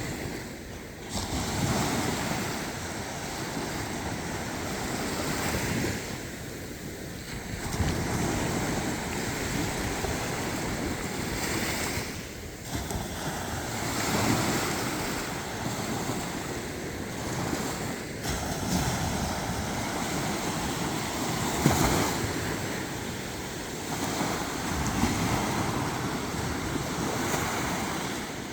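Sea surf: waves breaking and washing in, the rush swelling and fading again every few seconds.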